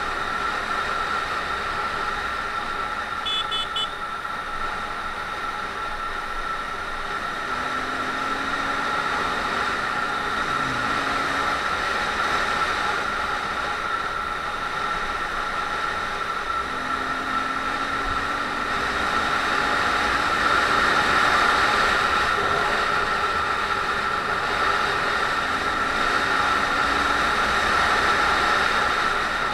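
Honda MSX125's single-cylinder four-stroke engine running under way, with steady wind rush and a steady high whine. The engine note rises three times as the bike accelerates.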